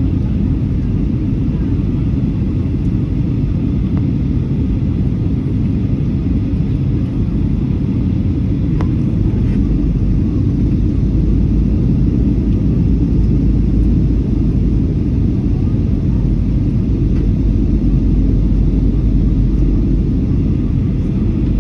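Steady low rumble of an airliner heard from inside the passenger cabin: engine and airflow noise, its deepest part swelling about halfway through.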